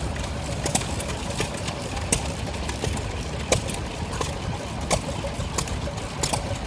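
Engine running: a steady low rumble with irregular sharp clicks and knocks over it.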